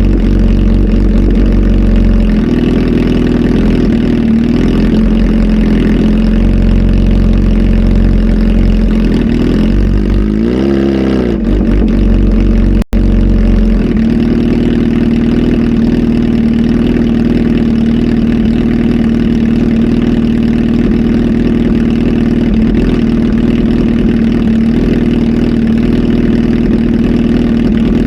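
Kawasaki Z H2 SE's supercharged inline-four, flash-tuned and fitted with a full exhaust, idling steadily and loud. About ten seconds in comes one quick blip of the throttle, rising and falling. The sound cuts out for an instant a couple of seconds later.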